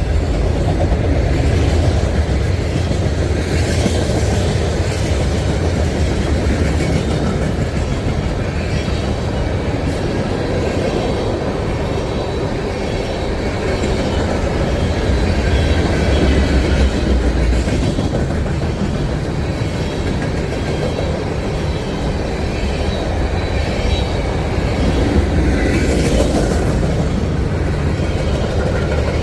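Train rolling past: a steady, continuous rumble of wheels on the rails with some clickety-clack.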